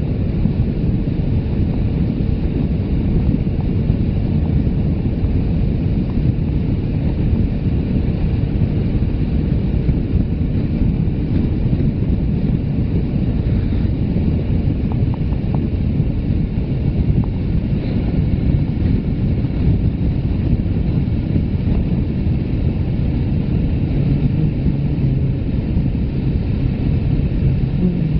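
Steady wind rumble buffeting a phone camera's microphone on a moving Suzuki GS500F motorcycle, with the bike's engine running underneath. A low steady engine note shows through near the end.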